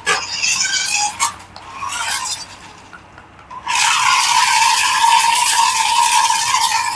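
Toy radio-control vehicle's small electric motor running with a steady whir, starting nearly four seconds in, after a few short scrapes and knocks.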